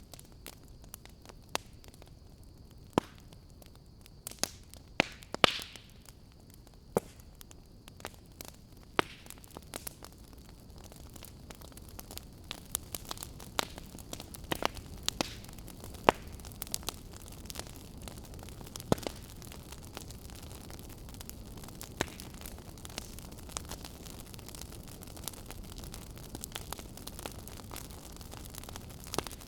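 Fireplace wood fire crackling: irregular sharp pops and snaps, a few much louder than the rest, over a low steady hiss of burning. A faint thin high whine sits under it for the first ten seconds or so.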